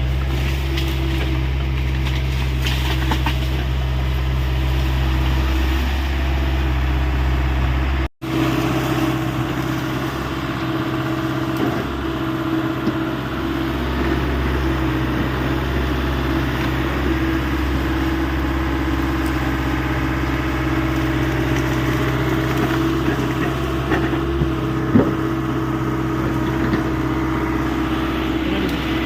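Hyundai 85 excavator's diesel engine running steadily with a constant whine over the hum. It cuts out abruptly for an instant about eight seconds in, then carries on.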